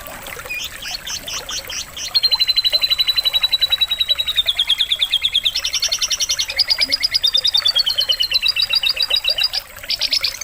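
Canary singing long, rapid trills of evenly repeated high notes, each run stepping to a new pitch, with a brief pause near the end.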